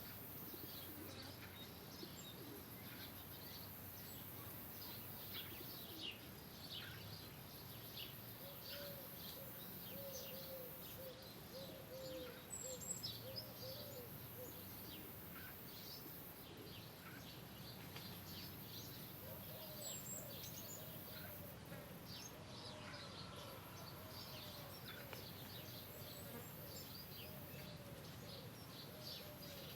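Birdsong: many short, high chirps from several birds throughout. A lower call repeats about twice a second, in one run near the middle and another through the last third.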